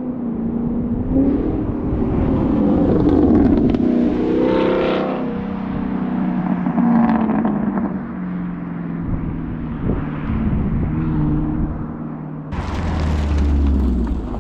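2021 Camaro SS's V8 running through an MBRP cat-back exhaust under way, its note climbing as the car accelerates and then settling at a lower steady pitch. About twelve seconds in, a sudden deeper, louder rumble comes in with a rushing hiss.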